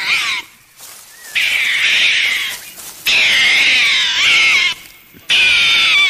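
Raccoon calling: four loud, high-pitched, wavering cries in quick succession, each lasting about one to one and a half seconds, with short pauses between them.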